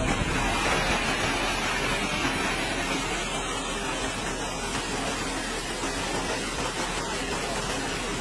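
Heavy machinery running steadily: a continuous, even mechanical noise with a constant low hum and no distinct strokes or changes.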